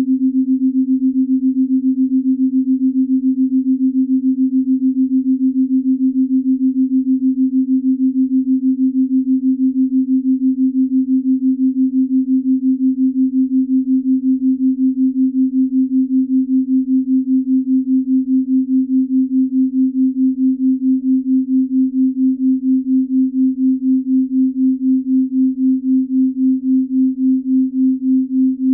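Binaural-beat tone: a single low, steady pure tone that pulses evenly in loudness, the pulses slowing gradually.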